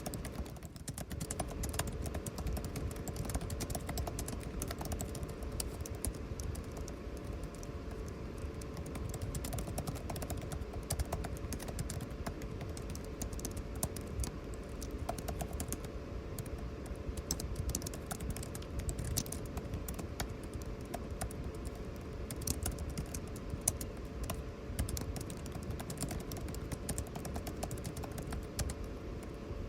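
Typing on a computer keyboard, a steady irregular patter of keystrokes, over the steady hum and rush of air conditioning.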